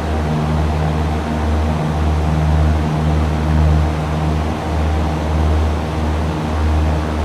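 Cessna 172's four-cylinder piston engine and propeller droning steadily, heard from inside the cabin, with a slow pulsing beat about every second and a half.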